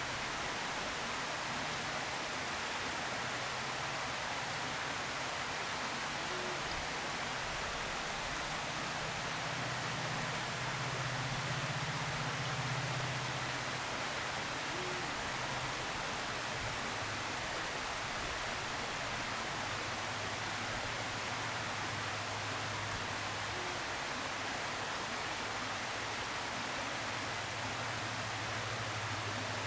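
Steady hiss with a low hum beneath it. Through it come faint, short, low hoots of a Eurasian eagle-owl, one about every eight seconds.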